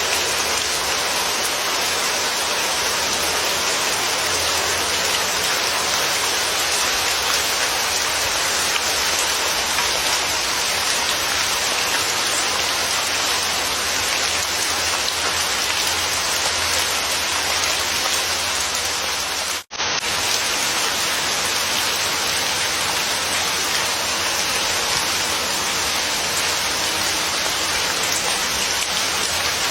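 Steady rainfall, an even hiss of rain on surfaces. About two-thirds of the way through it cuts out for a split second, then resumes.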